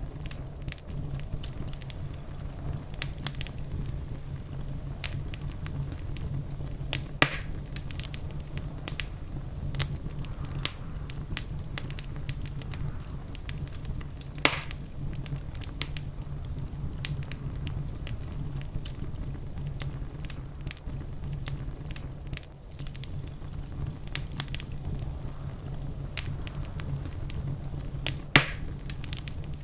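Wood fire crackling in a fireplace: a steady low rumble with frequent small pops, and three louder snaps spread through it.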